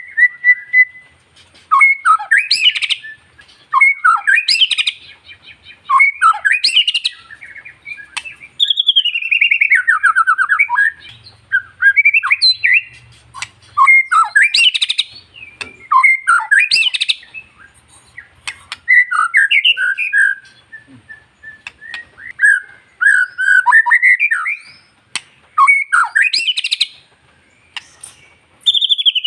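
White-rumped shama singing loudly: short whistled phrases about every two seconds, many sweeping upward, with a couple of longer phrases that slide steadily downward.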